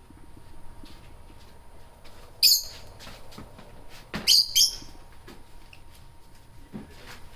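Pet lovebirds giving short, shrill chirps: one about two and a half seconds in, then two close together a couple of seconds later, with faint small clicks between.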